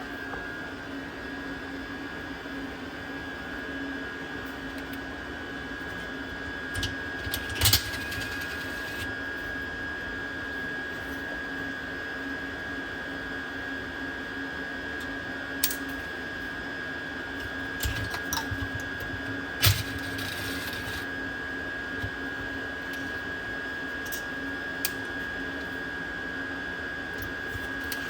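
Diesel heater's small electric blower fan motor running with a steady, even whine, with a few sharp clicks and knocks of handling scattered through.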